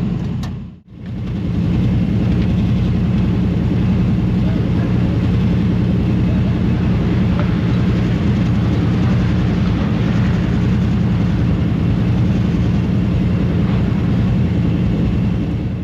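Dirt late model race car's V8 engine running at a steady speed, an even, unchanging drone.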